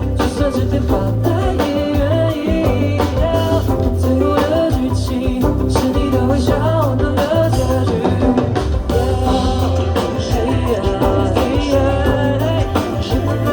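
Live pop band playing an instrumental passage: drum kit and bass under a melodic lead line.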